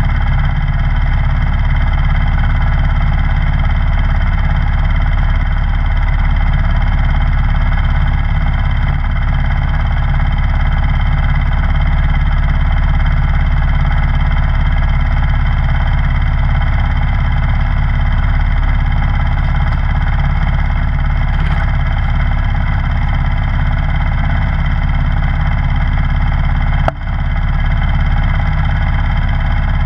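Snowblower's gasoline engine running steadily at constant speed. Near the end there is one sharp knock, and the level dips briefly.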